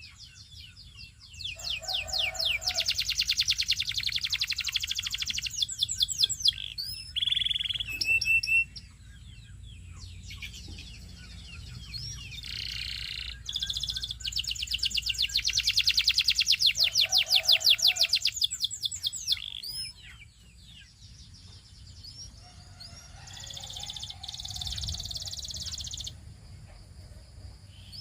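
Domestic canary singing long phrases of rapid, high trills of repeated notes, with short pauses between the phrases.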